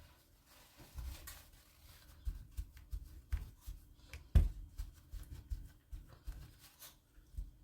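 Hands handling kitchen items: a string of irregular light taps, clicks and rustles, with one sharper knock about four seconds in.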